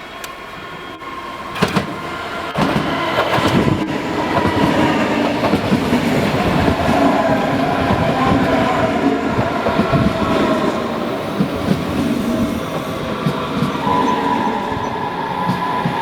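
Train passing close by on the tracks: a loud rumble that builds over the first couple of seconds, with wheels clicking over rail joints. A slowly falling whine runs through the middle, and a steady high tone joins near the end.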